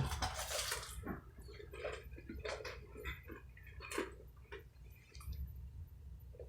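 Close-up chewing of a fried crab stick: a crackly crunch in the first second as the breaded coating is bitten, then scattered soft clicks and smacks of chewing.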